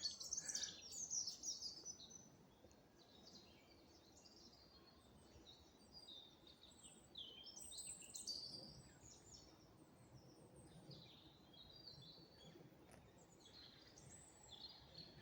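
Faint woodland birdsong: several small birds chirping and twittering in short, scattered phrases over quiet background noise.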